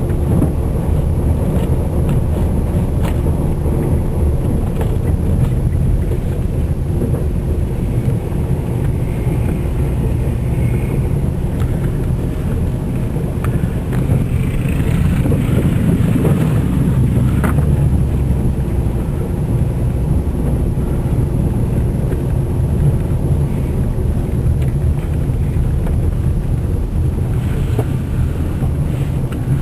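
Car driving, heard from inside the cabin: a steady low drone of engine and tyres, with a short swell of hissing noise about halfway through.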